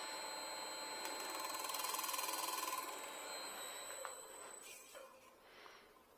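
Wood lathe running, a steady high whine with hiss, dying away over the last couple of seconds.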